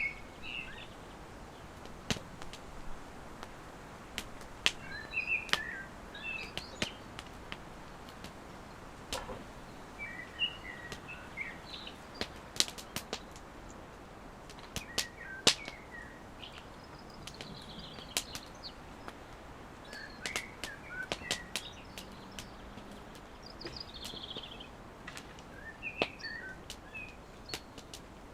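Wood campfire crackling, with sharp pops and snaps at irregular moments, and small birds chirping in short bursts throughout.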